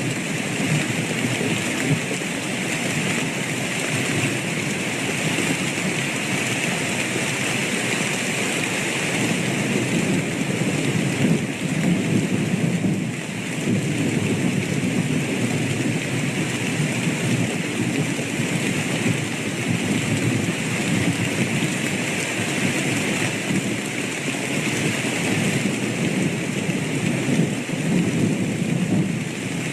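Steady heavy rain with a continuous low rumble of thunder under it.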